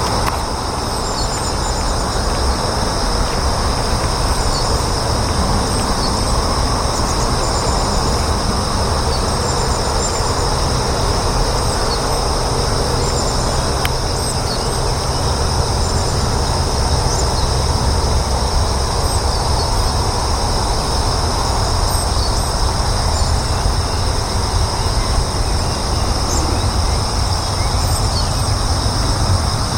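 Outdoor ambience: a steady, loud low rumble. Over it, insects sing in two unbroken high tones, with a few faint short high chirps.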